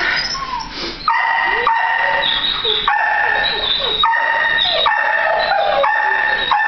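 Shelter dogs in their kennels barking and howling, from about a second in, with drawn-out calls repeating about once a second and several dogs sounding over one another.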